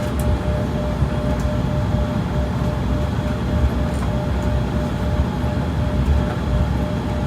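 Airliner cabin noise during the takeoff roll: a steady deep rumble of the wheels and engines, with a thin steady tone over it.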